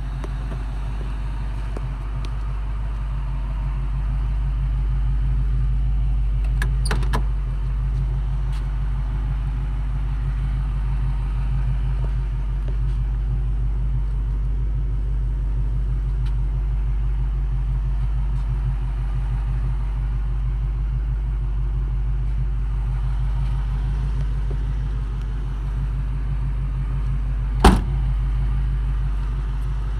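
1965 Ford Mustang's engine idling steadily, with a single sharp knock near the end.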